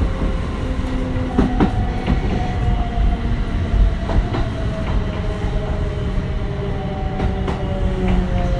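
Kintetsu 1420 series train's Mitsubishi GTO-VVVF inverter and traction motors whining in two steady tones that slowly fall in pitch as the train loses speed, over a low running rumble. The wheels click sharply over rail joints three times.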